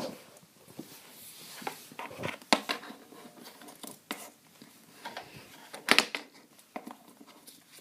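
Small objects being picked up and set down: a scattering of light knocks and clicks, the loudest about two and a half, four and six seconds in.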